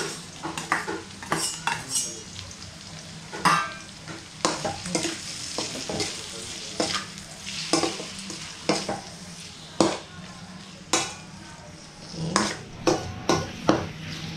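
Chicken livers sizzling as they fry in a hot stainless steel wok with onion, garlic and gizzards, while a metal spoon scrapes and clinks against the pan in irregular strokes as they are stirred.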